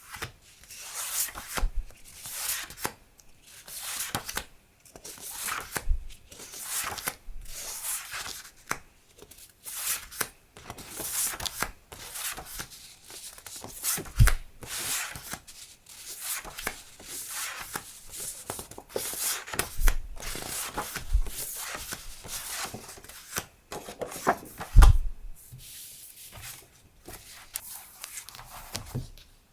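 Paper and packaging handled by hand: repeated rustling and crinkling strokes, with two louder soft thumps, one near the middle and one near the end.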